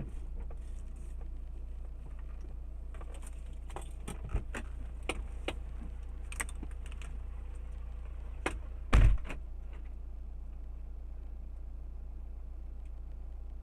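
Steady low hum of a vehicle, with scattered light clicks and rattles and one loud thump about nine seconds in.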